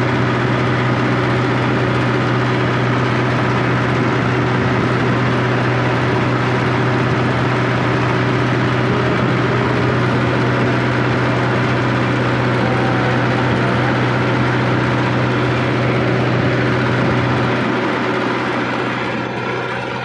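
Tractor engine running steadily with a constant low drone. Near the end the low hum drops away and the sound grows quieter.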